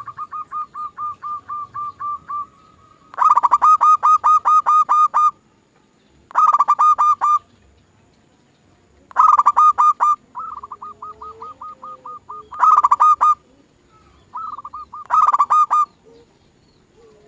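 Zebra dove (perkutut) lure recording: bursts of rapid, evenly repeated calls, about ten notes a second, each run lasting one to two seconds with short pauses between, and a soft lower coo twice in the second half.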